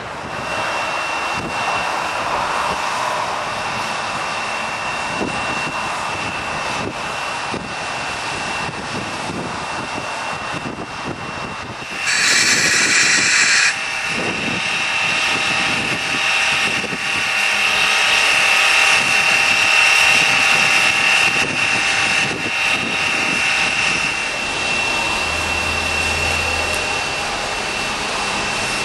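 Ex-Canadian National 0-6-0 steam locomotive running light, with a steady hissing roar. One short, louder blast of under two seconds comes about twelve seconds in.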